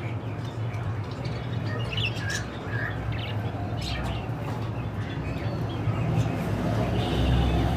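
Budgerigars chirping and squawking in many short, scattered calls over a steady low hum.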